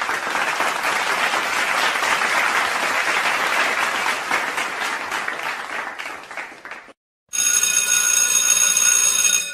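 Applause, dense clapping for about seven seconds that cuts off abruptly; then, after a short gap, a steady bright ringing tone for about two seconds.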